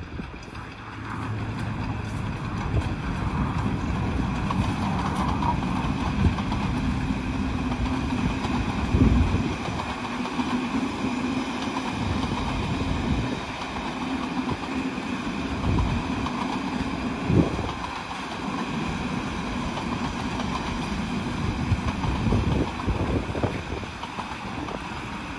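A steam-hauled passenger train running past, led by LMS Royal Scot class locomotive 46100 and followed by a long rake of coaches rolling along the track, with a few sharp knocks from the wheels. Wind buffets the microphone throughout. Near the end the trailing Class 47 diesel, D1944, draws level.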